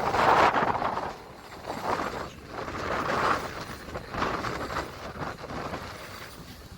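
Steam train running, a noisy sound that swells and fades roughly once a second, loudest at the start.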